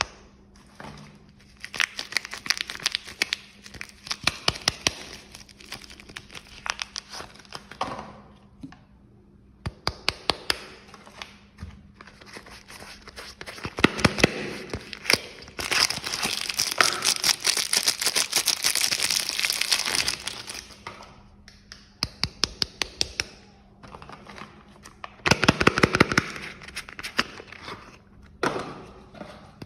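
Soap packaging being unwrapped by hand: crinkling and tearing of the wrappers with many small sharp crackles and clicks, and a longer, louder stretch of crinkling a little past the middle.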